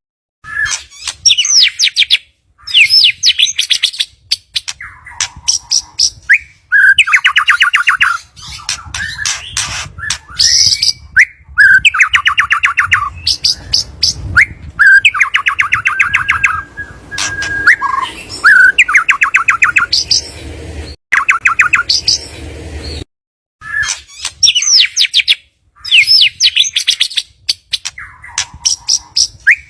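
White-rumped shama (murai batu) singing: loud, varied phrases of rising and falling whistles alternating with fast rattling trills, broken by several abrupt gaps.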